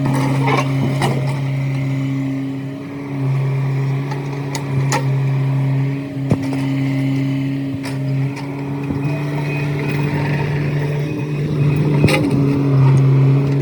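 Heavy earthmoving machine's engine running steadily, its note dipping and rising slightly with load, with sharp knocks and clanks scattered through as old concrete footers are torn out.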